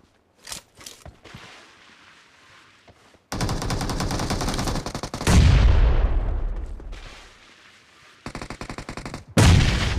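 Video game automatic gunfire in rapid bursts, after a few faint clicks at the start. About five seconds in comes a louder, deeper burst that dies away over two or three seconds, then another quick burst, and loud fire again near the end.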